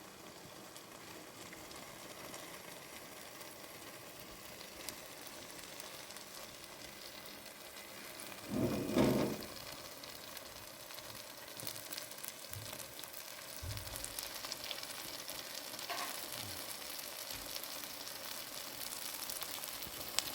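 Food frying in a pan: a steady sizzle, growing a little louder in the second half, with a brief louder sound about nine seconds in.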